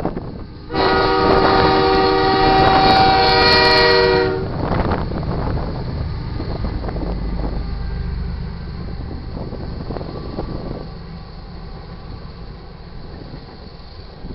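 The lead diesel locomotive's air horn sounds one long, loud blast of about three seconds at the crossing, then cuts off. The GE diesel locomotives rumble past, giving way to the steady rolling clatter of freight cars, including loaded crude oil tank cars.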